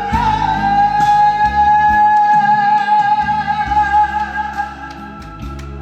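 A singer holds one long high note at the end of a song, over a pop-style instrumental accompaniment with a moving bass line. The held note fades out near the end while the accompaniment plays on more quietly.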